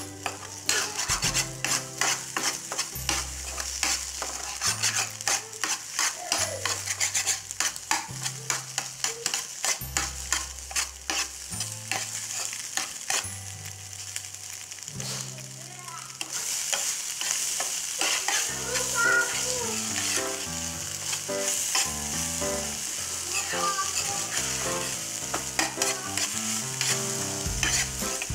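Spatula scraping and clicking against a nonstick frying pan while scrambled egg and onion-tomato masala are stirred, over the sizzle of frying. The clicks are thick in the first half; about halfway they thin out and the sizzle grows louder.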